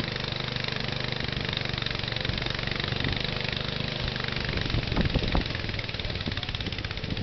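Tractor engine idling steadily. About five seconds in, the sound grows louder and less even.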